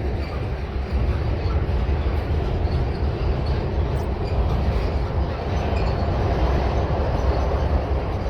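A train rolling past at trackside: a steady, heavy rumble of railcars on the rails, with faint, scattered high wheel squeaks.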